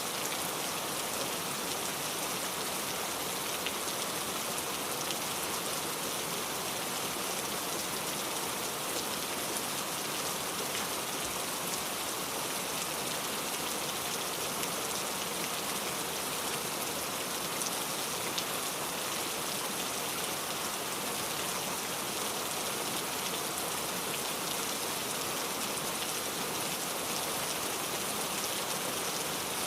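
Steady rain falling, a dense even hiss of many drops hitting a surface with fine individual patters.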